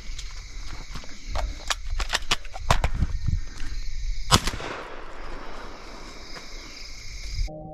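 Crickets chirring steadily, with several sharp clicks and knocks in the second and third seconds. A single shotgun shot comes a little over four seconds in and echoes away over the next second. The outdoor sound cuts off just before the end.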